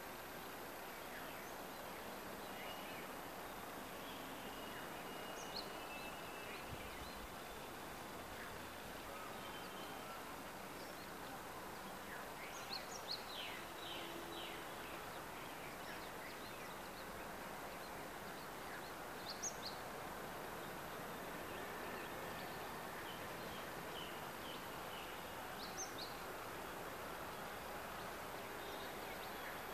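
Steady outdoor background hiss with short, high bird chirps here and there: single chirps now and then and a quick run of several about halfway through.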